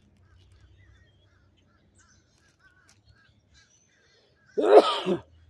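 A man's loud sneeze about four and a half seconds in, a single sharp burst lasting about half a second. Before it, faint distant crows cawing.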